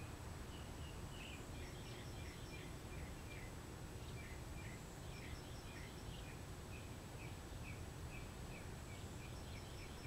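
Songbirds chirping: a string of short chirps, with a quick run of about five high notes returning three times, over steady low background noise.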